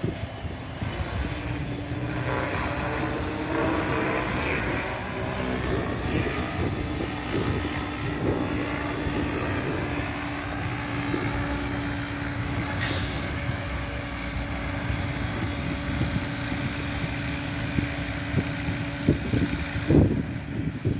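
Align T-Rex 700E electric RC helicopter in flight: a steady whine from its brushless motor and drivetrain over the rush of its rotor blades. A sharp knock comes near the end.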